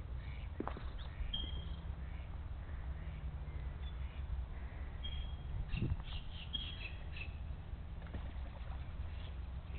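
Birds chirping in short high calls, a few early on and a cluster about five to seven seconds in, over a steady low rumble, with a soft thump about six seconds in.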